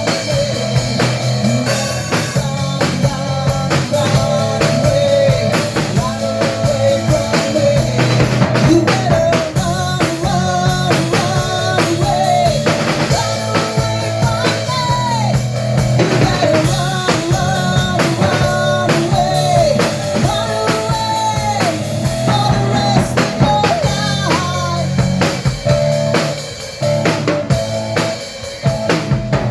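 Live rock band playing: drum kit keeping a steady beat under electric guitar and bass, with a voice singing the melody through the middle stretch.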